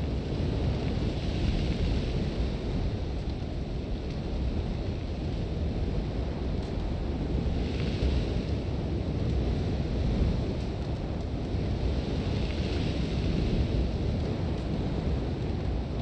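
Sandstorm wind with a constant low rumble and a hiss of blowing sand that swells in three gusts, near the start, about halfway and late on.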